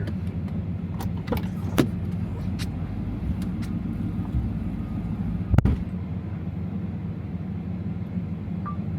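2024 Ram TRX's supercharged 6.2-litre Hemi V8 running steadily at low speed, with a handful of short knocks, the loudest about five and a half seconds in.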